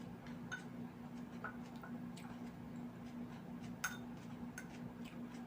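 Eating at a table: scattered soft clicks and small clinks, about six or seven of them, with one sharper clink a little under four seconds in. A steady low hum runs underneath.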